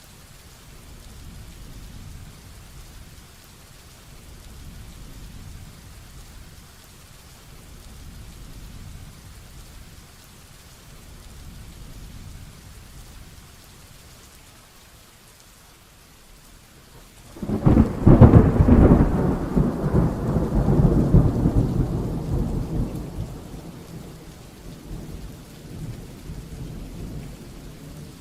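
Steady rainfall with a low background rumble, then a sudden loud thunderclap a little past halfway that rolls on for about six seconds and fades.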